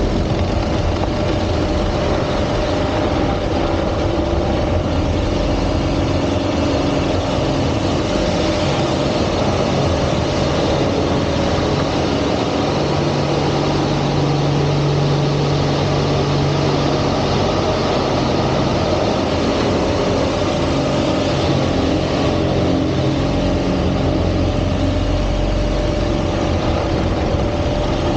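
Single-engine aerobatic airplane's piston engine and propeller running loudly and steadily through an aerobatic display, the pitch of its tones shifting a little partway through.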